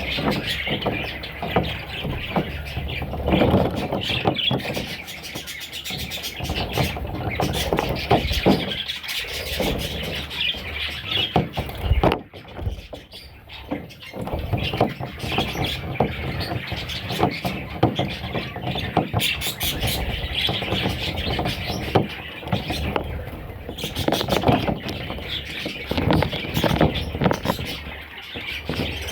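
Newborn budgerigar chicks squeaking and chirping almost without a break, the begging calls of nestlings, with scattered sharp clicks. The calling drops off briefly about twelve seconds in.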